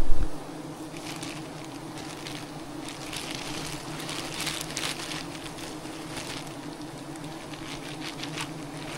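A swarm of honeybees buzzing around their wild hive in a steady hum, with scattered rustling and crackling. A brief low thump at the very start.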